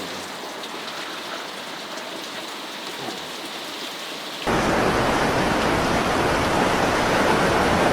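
Rain falling steadily. About halfway through it breaks off abruptly into a much louder, even rushing noise of heavy water.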